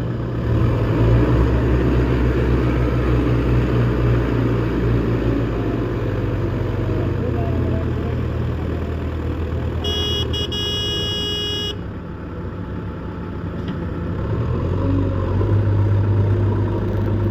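Solis tractor's diesel engine running steadily under load, its sound dropping off about twelve seconds in and picking up again near the end. A few short high beeps sound about ten seconds in.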